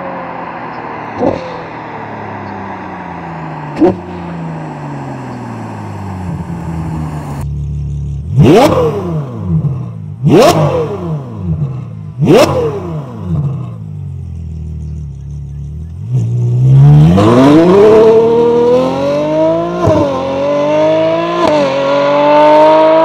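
Ferrari 812 Superfast's naturally aspirated V12 through a titanium Baq exhaust. The engine note falls steadily as it winds down, with two sharp cracks in that stretch. It then gives three quick revs that rise and fall, and finally a hard pull whose pitch climbs, broken twice near the end by quick upshifts.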